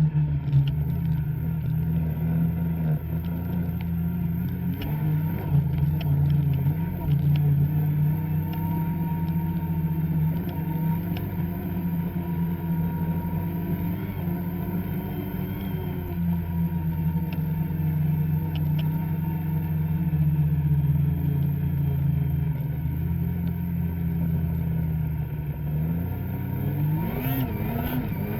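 Two-stroke snowmobile engine running steadily under way, its pitch rising near the end as the throttle opens.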